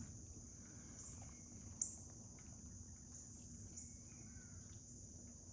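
Faint, steady, high-pitched trilling of an insect chorus, with a single sharp click a little under two seconds in.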